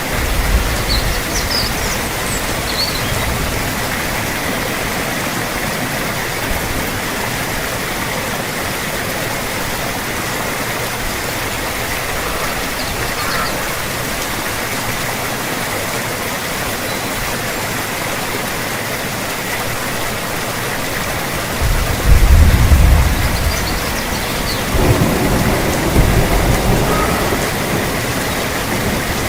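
Steady rain falling with a constant hiss, joined by thunder: a short low rumble at the start, then a loud rolling rumble about three-quarters of the way through, followed shortly by another.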